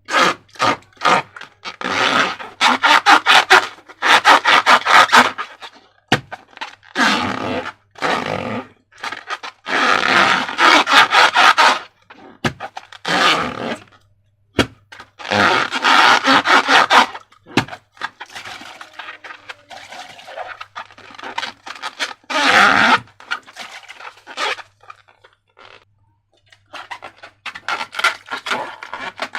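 Slime being squeezed and mixed, wet squelching with dense crackling pops, in bursts of one to three seconds with short pauses between.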